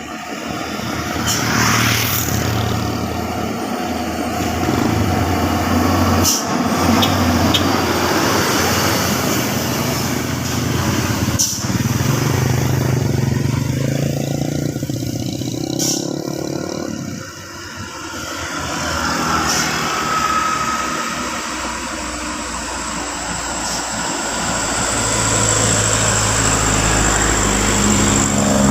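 Heavy diesel trucks rolling slowly down a highway grade, their engines running low under steady traffic noise, with a few short sharp noises at intervals.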